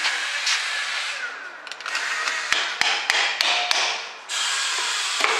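Metal tools knocking and clanking during drum-brake work, with a run of sharp knocks in the middle, then a steady noise starting about four seconds in.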